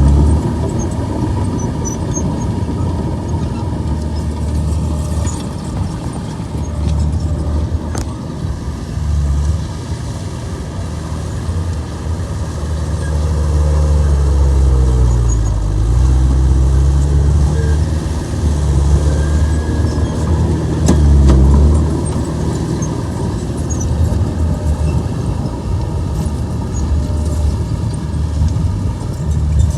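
Komatsu bulldozer's diesel engine running steadily. Its pitch sags and recovers about halfway through and again a few seconds later. There is one sharp click about a third of the way in.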